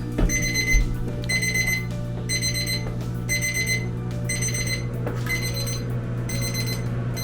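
Smoke alarm going off from the smoke of oil heating in a hot skillet: a high electronic beep about half a second long, repeating about once a second, over a steady low hum.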